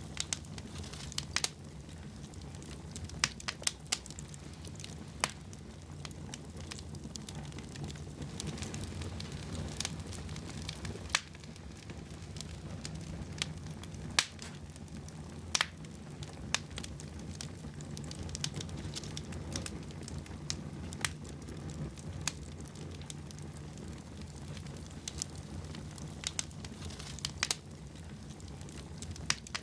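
Wood fire burning in a fireplace: a steady low rush of flames with irregular sharp crackles and pops of the burning logs.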